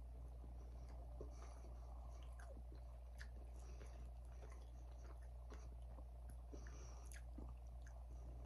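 Faint close-up chewing of a mouthful of food, with scattered small mouth clicks, over a steady low hum.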